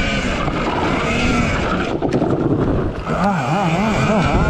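Wind buffeting the microphone while the RFN SX E15 Plus electric dirt bike is ridden, with a pitched whine that wavers up and down during the last second and a half.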